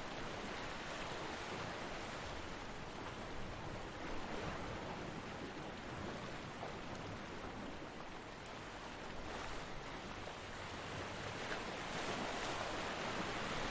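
Ocean surf breaking on a beach, a steady wash of noise that swells and ebbs slowly, dipping a little past the middle and building again near the end.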